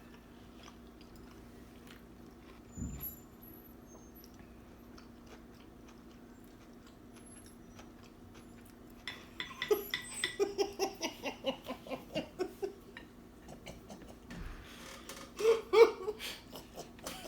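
Quiet chewing of sushi with faint small clicks, then about nine seconds in a burst of laughter in quick pulses that runs a few seconds, and another short loud laugh near the end.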